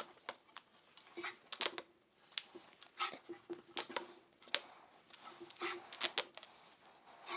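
Gorilla duct tape being handled: a run of short, sharp rasps and clicks at an irregular pace as strips are pulled off the roll and pressed onto a smooth drive wheel so that the slipping friction drive has something to grip.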